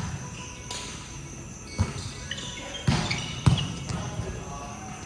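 A ball bouncing on a hall floor: three dull thumps, irregularly spaced, the loudest about three and a half seconds in, each with a short echo.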